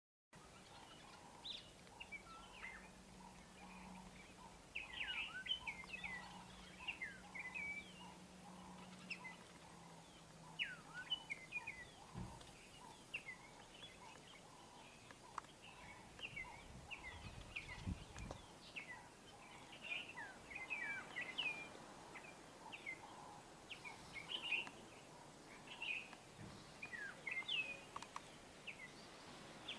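Small birds chirping in many short, quick calls over a faint steady hiss of outdoor air, with a couple of dull low thumps.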